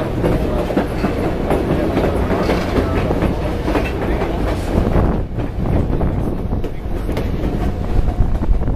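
White Pass & Yukon Route passenger train heard from aboard while it runs, a steady rumble and rattle with wheels clicking irregularly over the rail joints.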